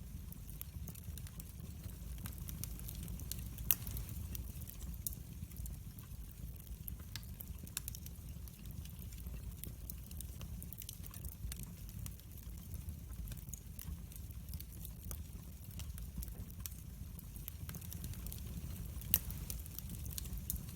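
Wood fire burning in a fireplace, with a steady low rumble and scattered sharp crackles and pops, the loudest pops at about four seconds in and near the end.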